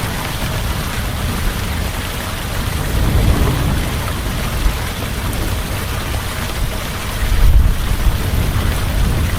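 Heavy rain falling steadily, with low thunder rumbles swelling about three seconds in and again, louder, about seven and a half seconds in.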